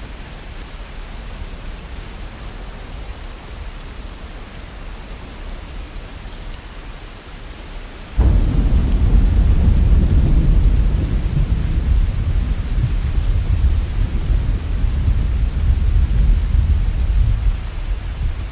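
Heavy rain falling as an even hiss. About eight seconds in, a low roll of thunder breaks in suddenly and loud, then rumbles on, easing slightly near the end.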